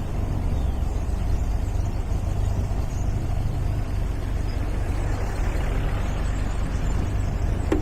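MGA roadster driving on the road: a steady low engine drone with road and wind noise. There is a brief click near the end.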